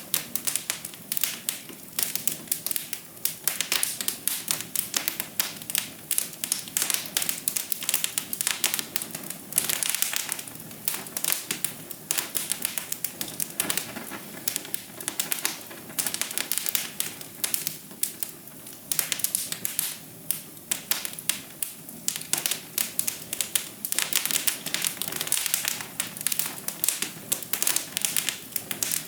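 Wood fire crackling in a fireplace: a dense, irregular run of snaps and pops over a steady hiss.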